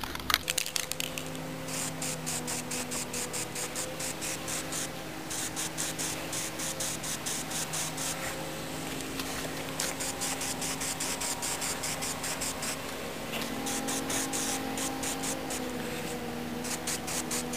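Aerosol spray-paint can hissing in long passes with brief breaks, laying down a first coat on a minibike's rear fender, over a steady low hum. A few sharp clicks sound right at the start.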